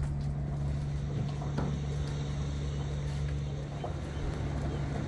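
Steady low engine hum of a running vehicle, with a few faint clicks and knocks over it.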